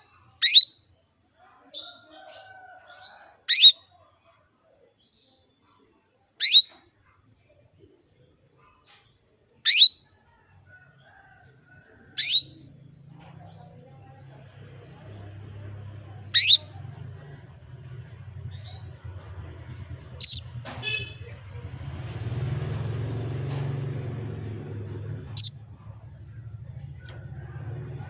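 Female canary calling: single loud, short chirps that slide sharply down in pitch, repeated every three to five seconds. Faint short runs of quick ticks come between them, and a low hum comes in about halfway through, loudest near the end.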